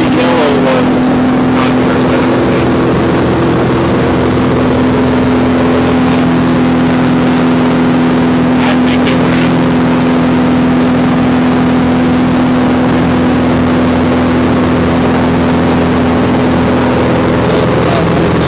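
Small propeller airplane's engine running steadily in flight, a constant loud drone that holds one pitch throughout.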